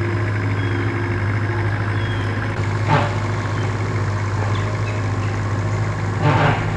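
Bobcat skid-steer loader's engine running steadily with a low hum, with two short louder bursts of noise about three seconds in and near the end.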